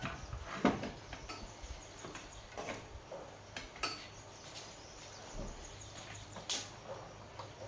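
Irregular light clicks and taps of small hard objects being handled, a few to the second, with a louder knock near the start and another near the end.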